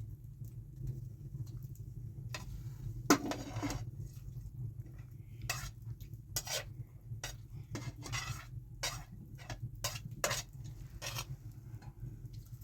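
Cutlery and dishes clinking and scraping in an irregular series of sharp knocks, over a steady low hum.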